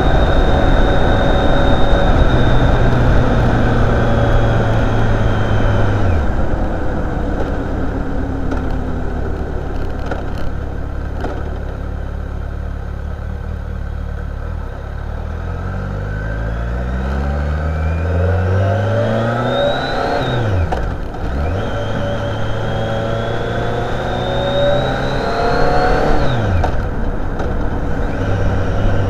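Motorcycle engine under way: it holds a steady pitch, eases off, then revs up and drops sharply as it shifts up, twice, over a steady rush of riding noise.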